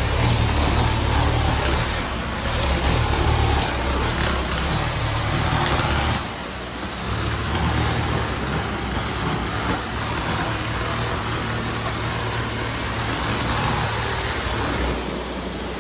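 Hose-fed tile-cleaning tool running on a tile floor under vacuum extraction: a steady rushing hiss over a low machine hum. The sound dips briefly about six seconds in, and the low hum falls away near the end.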